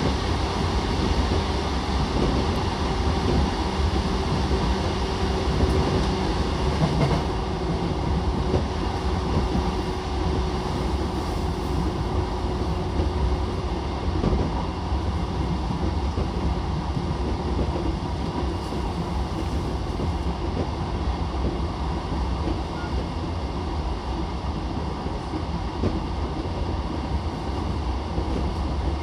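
E233-7000 series electric commuter train with Mitsubishi IGBT-VVVF traction, running at speed and heard from inside the passenger car: a steady low rumble of wheels on rail, with a thin steady hum tone that fades out about halfway through.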